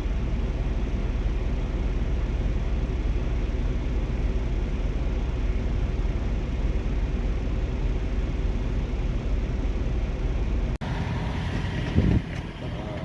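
Truck engine running, a steady low hum with held tones. About 11 seconds in the sound changes suddenly to a gusty, windier noise with a short loud thump about a second later.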